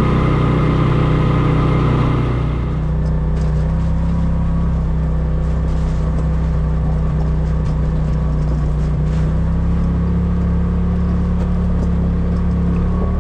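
A vehicle engine running steadily while driving. About two and a half seconds in its note shifts and the higher hiss fades, with a few light clicks afterwards.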